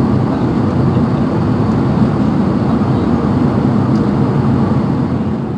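Steady rumble of an Airbus A380 airliner heard from inside the passenger cabin, a low, even drone of engines and air. It fades slightly near the end.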